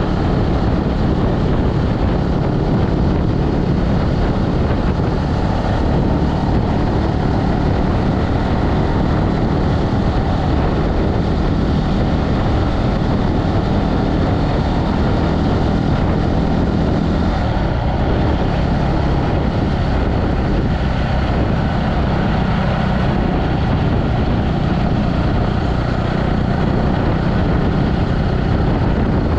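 Motorbike engine running steadily while riding, with no change in pace.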